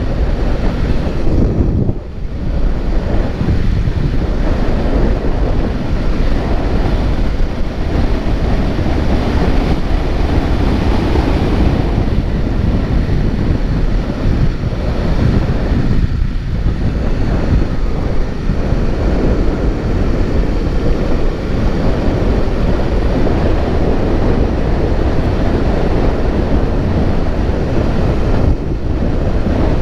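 Steady, loud wind rush buffeting the action-camera microphone while riding along a dirt track, with the vehicle's running noise underneath.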